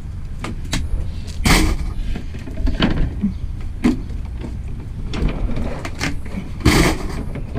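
A few short clunks and knocks from scrap items being handled, the loudest about one and a half seconds in and again near the end, over a steady low rumble.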